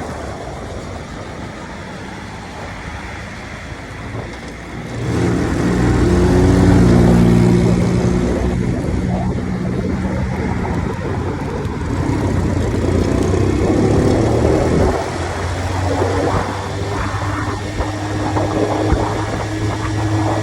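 Grom-clone mini motorcycle engine running while riding, with road and wind noise. It gets louder about five seconds in, as the engine pulls harder, and then holds a steady drone.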